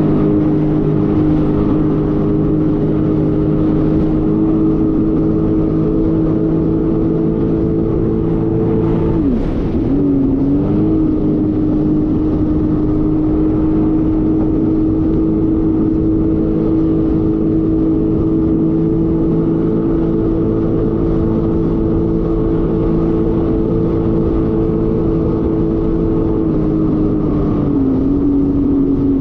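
Jet ski engine running at a steady cruising speed. Its pitch dips briefly and comes back up about nine seconds in, then drops slightly near the end.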